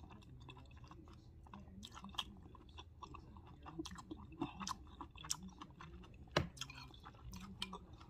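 Close-up eating sounds of a person chewing a mouthful of gumbo and rice: wet chewing with many small, sharp clicks, and one louder click about six seconds in.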